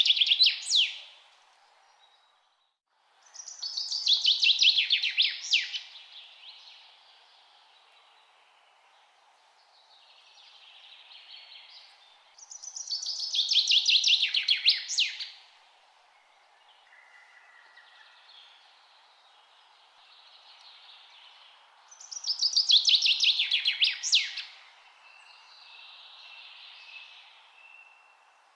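A songbird singing a loud song of about two seconds, a fast trill that falls in pitch and ends in a quick flourish, repeated four times about every nine seconds. Fainter bird calls fill the gaps over a steady low hiss.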